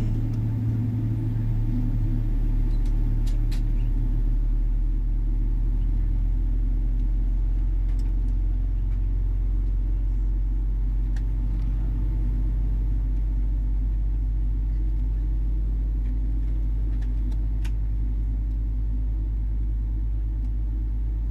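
Steady low rumble and hum inside the cabin of a Boeing 777-300ER, its GE90 engines running at low power while on the ground, with a few faint clicks.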